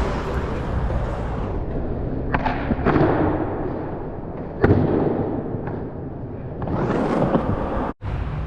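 Skateboard wheels rolling on concrete with a steady rumble, broken by several sharp clacks of the board hitting the ground. The loudest clack comes about four and a half seconds in. The sound cuts out for an instant near the end.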